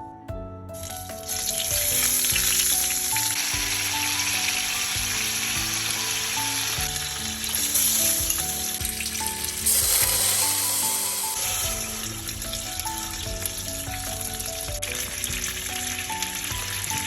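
Food sizzling as it fries in hot oil. The sizzle starts about a second in and swells a couple of times. Light background music plays underneath.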